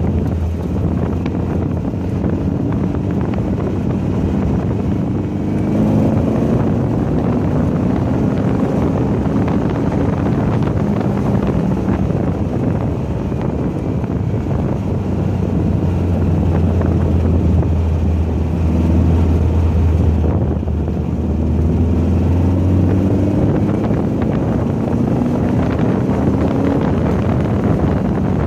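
Car engine running hard on track, its pitch climbing twice as it pulls up through the revs, under heavy wind noise on the microphone.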